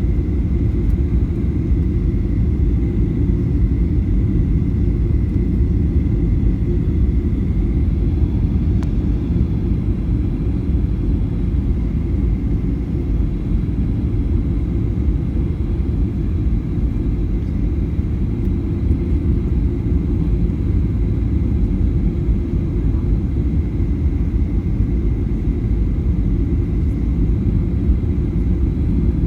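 Steady low rumble of an airliner cabin in flight, with a faint steady whine above it.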